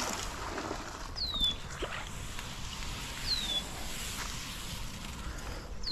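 A bird repeating a short, high, down-slurred whistle three times, about two seconds apart, over a steady outdoor background hiss.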